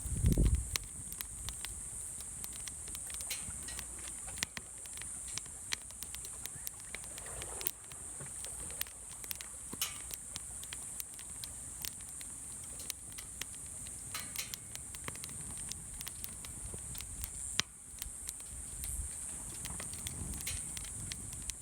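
Wood fire crackling in a fire pit, with irregular sharp pops and snaps over a steady high-pitched hiss. A low thump sounds at the very start.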